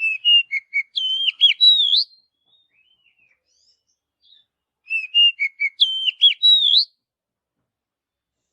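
Oriental magpie-robin (kacer) singing the same short whistled phrase twice, about five seconds apart. Each phrase is a run of quick varied notes ending in higher, rising whistles.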